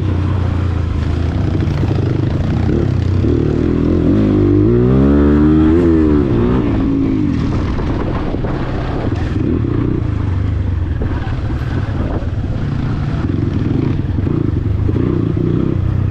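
Dirt bike engine running while riding. About four seconds in it revs up, peaks, and drops back a couple of seconds later, then goes on at a steady lower pitch.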